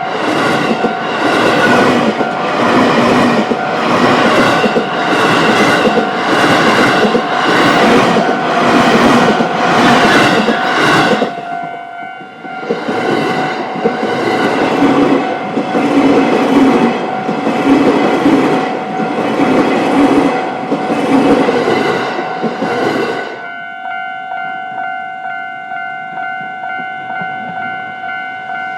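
A train runs through a Japanese railway level crossing, its wheels clattering in a steady rhythm over the rails, while the crossing's electronic alarm bell rings a fast, even clang. The train clears about three-quarters of the way through, and the crossing bell keeps ringing on its own.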